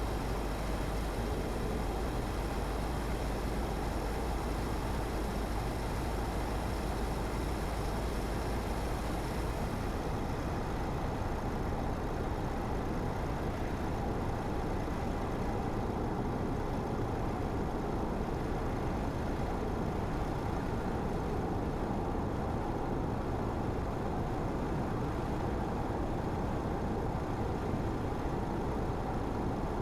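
Car driving at steady speed, a continuous mix of tyre-on-road noise and engine. About ten seconds in, the deepest rumble and the high hiss drop away, as with a change of road surface or speed.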